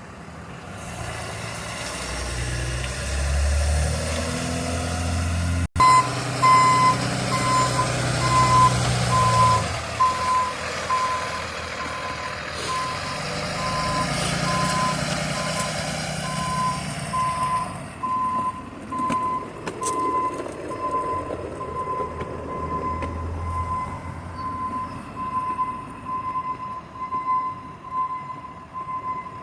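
Emergency vehicle reversing: its backup alarm beeps steadily at an even pace from about six seconds in, over the diesel-like rumble of its engine, which is strongest in the first ten seconds.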